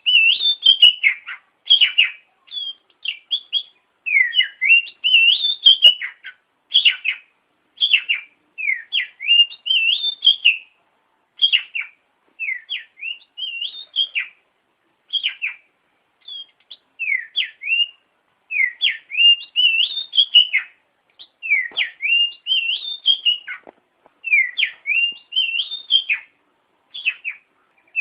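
Oriental magpie-robin (kacer) singing continuously: a run of short whistled phrases, each sweeping down and up in pitch, with brief pauses between them.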